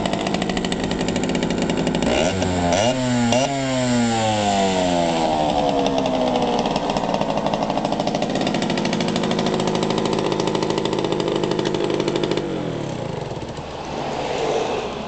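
Yamaha DT50 two-stroke single-cylinder motorcycle engine running after a start. It is revved twice in quick succession about two seconds in and settles back to a steady idle. About twelve seconds in its pitch falls and the sound drops away as the engine winds down.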